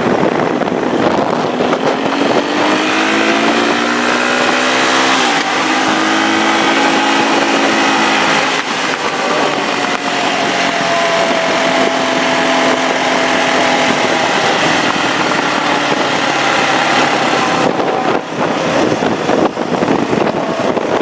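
Nissan Patrol engine running under load off-road, its note rising for a few seconds and then dropping sharply about five seconds in before holding steadier. A constant rushing noise sits underneath throughout.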